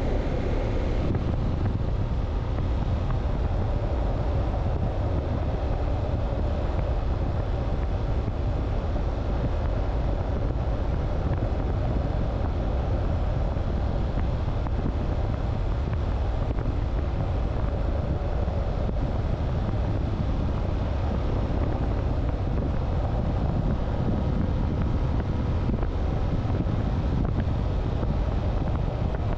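Steady wind rush on the microphone over a motorcycle riding at road speed, its engine and tyres blended into an even low rumble.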